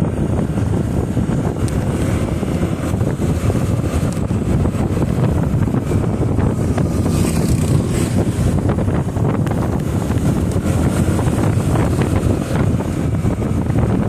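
Wind buffeting the microphone of a moving motorcycle, a steady loud rumble over the bike's running engine and road noise.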